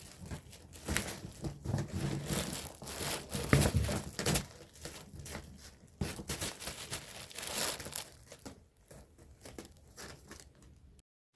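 Irregular crinkling and rustling, dense and loudest in the first half and sparser toward the end, then cutting off abruptly just before the end.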